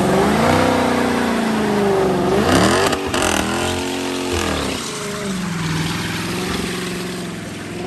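Car engine revving up and down several times against the brake in a wet-pavement burnout, holding high revs for a second or so in the middle before settling lower, with a steady hiss of tyre spin and spray. The unwelded rear differential lets only one rear tyre spin.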